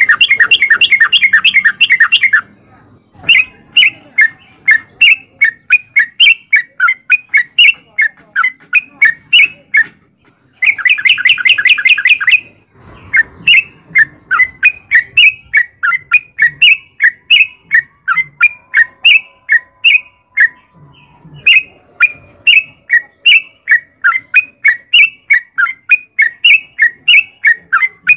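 Yellow-vented bulbul (trucukan) singing. Two fast rolling trills of tightly packed notes, one at the start and one about halfway through, each lasting about two seconds, are separated and followed by a steady string of short bubbly chirps, about three a second.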